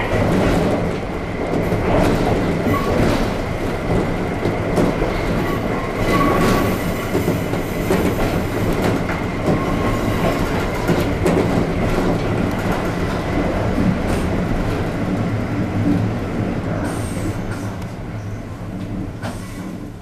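Hokuriku Railway 7000-series electric train running on jointed track, heard from the cab: a steady rumble with wheels clicking over rail joints, growing quieter in the last few seconds as the train slows.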